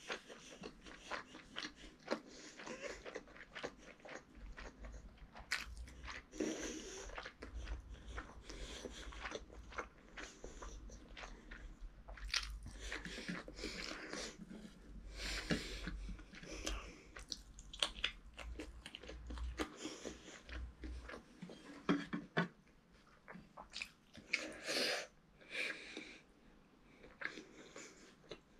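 Close mouth sounds of a child eating rice and chicken curry with his hands: irregular chewing, lip smacks and small wet clicks.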